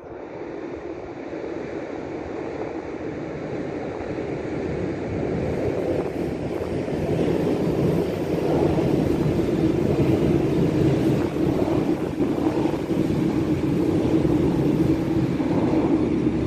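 ATR 120 diesel multiple unit approaching and running over a level crossing. The engine and wheel noise builds over the first eight seconds and stays loud, with a steady hum, as the railcar passes.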